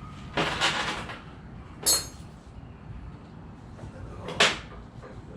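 Metal engine parts being handled on a bench. A scraping rustle is followed about two seconds in by a sharp metallic clink with brief ringing, and another sharp knock comes near the end.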